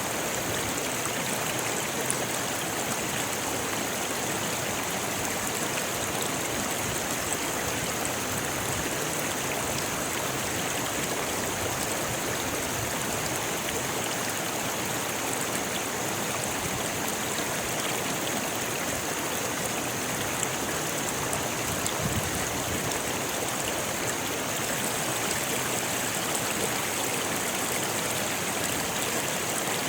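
Rocky river rushing and splashing over stones, a steady even flow.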